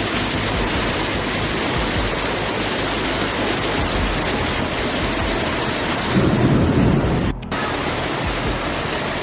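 Steady rushing noise of typhoon wind and rain, with a louder low gust about six seconds in and a brief drop just after seven seconds.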